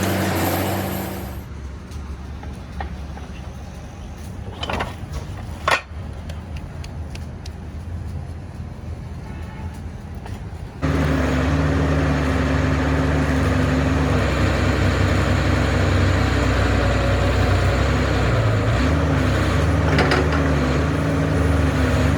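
Heavy diesel engine of an excavator running steadily, with a couple of sharp metallic clanks in the quieter first half. About halfway through the engine becomes suddenly much louder and stays loud.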